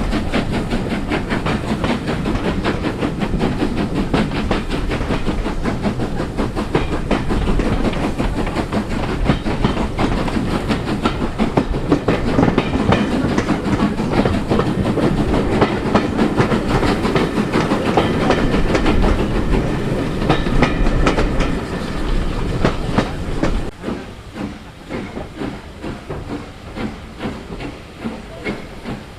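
A train passing close by, its wheels rumbling and clattering over the rail joints; about 23 seconds in the loud rumble falls away sharply, leaving quieter, evenly spaced clacks as the last carriages roll past.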